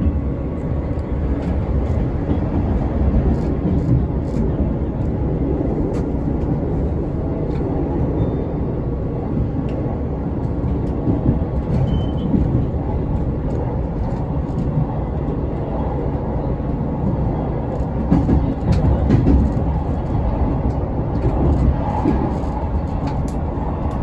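Passenger train running along the track: a steady low rumble with scattered clicks and knocks from the wheels and rails.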